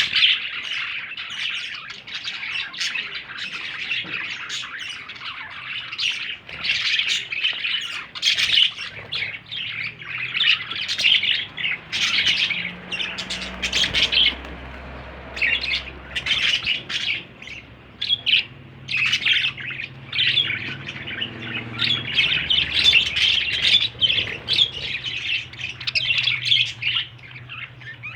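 Young budgerigars chirping and chattering continuously, a dense run of quick short calls with the odd harsher squawk.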